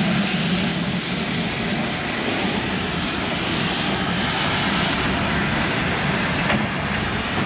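A train running past on a heritage steam railway, a steady rushing roar with a constant low hum.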